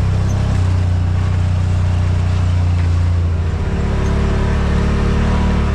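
Side-by-side UTV engine running steadily while driving on a dirt trail, a constant low drone with trail and tyre noise over it.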